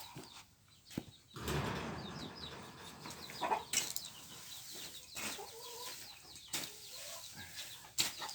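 Mother hen clucking low while her chicks peep in many short, high chirps, with rustling and a few sharp knocks.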